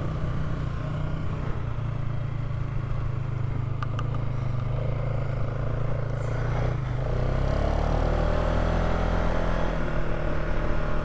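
Polaris Sportsman 570 ATV's single-cylinder engine running at low speed while the quad turns around, steady at first, its pitch rising after about seven seconds as it picks up speed. A sharp click about four seconds in.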